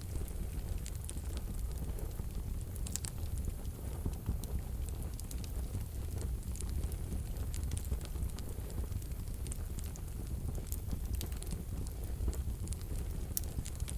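Wood fire burning in a wood stove: a steady low rumble of flames with irregular soft crackles and pops scattered throughout.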